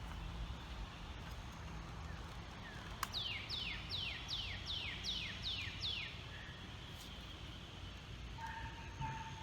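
A songbird sings a run of about seven quick down-slurred whistles, about three a second, starting about three seconds in, over a steady low outdoor rumble. A single sharp click comes just before the song.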